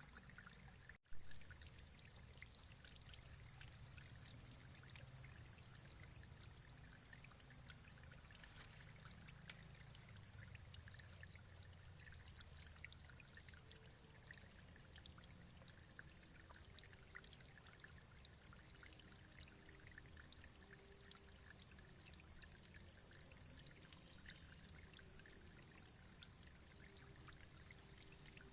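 Faint, steady running water. About a second in there is a brief dropout and a click.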